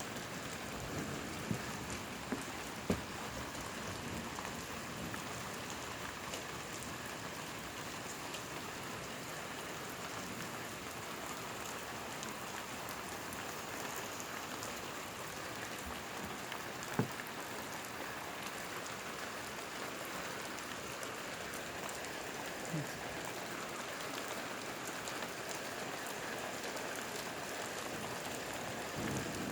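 Steady rain falling during a thunderstorm, an even hiss, with a few sharp taps near the start and a louder one about halfway through.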